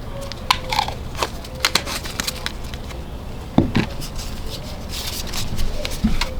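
Irregular clicks and knocks of hand work on a metal tool, with a heavier knock about halfway through and another near the end, over a steady low hum.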